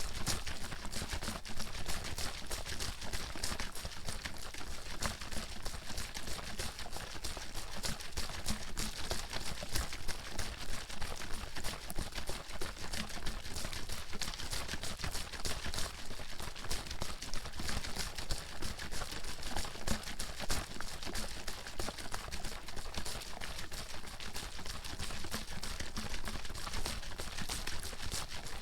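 Water bottle being shaken continuously: liquid sloshing and slapping inside the bottle in a rapid, steady stream of splashes and clicks.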